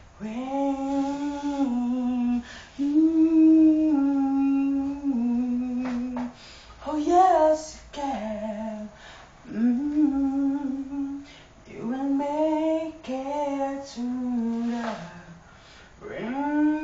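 A woman's voice singing unaccompanied, holding long, drawn-out notes that step up and down, with short breaths between phrases and no clear words.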